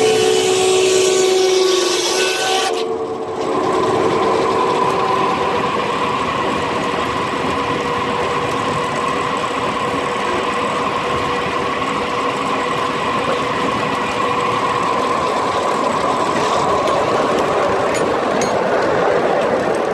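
A steam whistle sounds a chord of several steady tones with a rush of steam, then cuts off about three seconds in. It is followed by the steady whine and rush of a steam-driven sawmill running.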